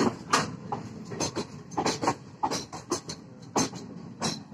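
Indian Railways passenger coaches rolling past on the track: a steady low rumble under repeated sharp metallic clacks as the wheels strike the rail joints, a few each second.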